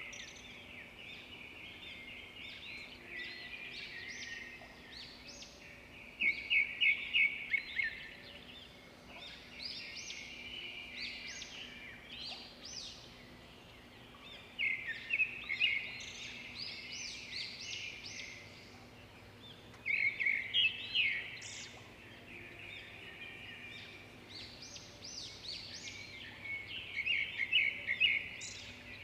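Birds singing and calling continuously, with a loud fast run of repeated chattering notes every six or seven seconds, over a faint steady background.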